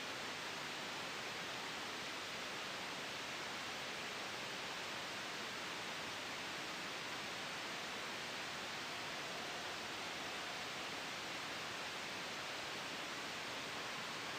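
Soft white noise blended with a gentle wind sound: an even, steady hiss that does not change.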